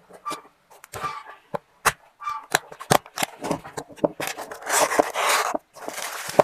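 Product packaging being handled: a run of sharp clicks and taps, then loud rustling and crinkling of the wrapping about two-thirds of the way in and again near the end.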